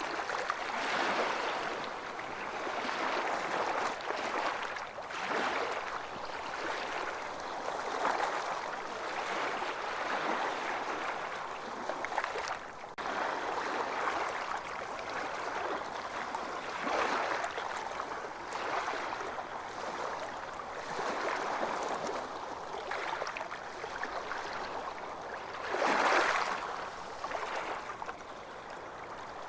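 Ocean waves breaking and washing on a beach, a continuous surf wash that swells and ebbs every few seconds, with the biggest surge near the end.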